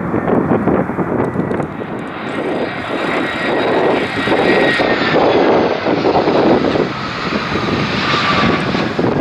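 Jet engines of a BAe 146-family four-engine airliner running near the runway, a faint whine slowly falling in pitch through the middle, mixed with loud gusting wind buffeting the microphone.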